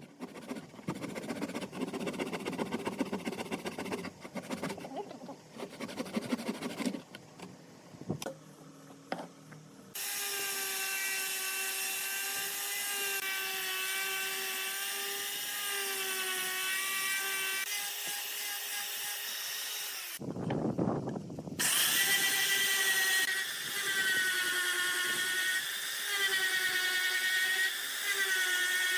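A small electric power tool working wood, its motor whining steadily and dipping in pitch again and again as it takes load. About two-thirds of the way through it stops behind a short low burst, then restarts. Before it comes several seconds of rough rasping on wood.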